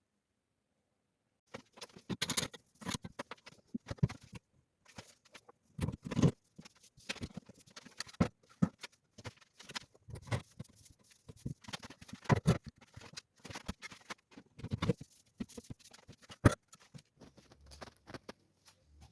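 Irregular knocks, clicks and scrapes of hand work during bathroom tiling, with tiles and tools being handled. They start after about a second and a half of silence and go on without any steady rhythm.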